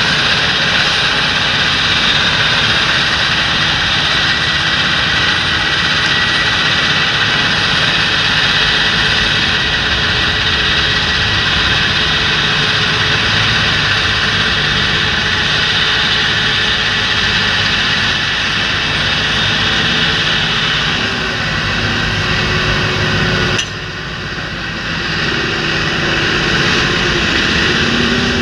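Large John Deere tractor's diesel engine running steadily while working a field. About 23 seconds in the sound drops suddenly, then the engine note rises and falls.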